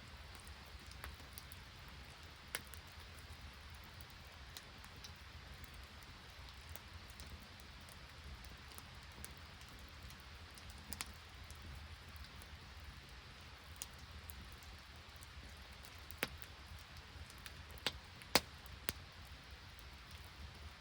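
Steady hiss of rain and sleet falling, with a dozen or so sharp single pops scattered irregularly through it, the loudest few near the end.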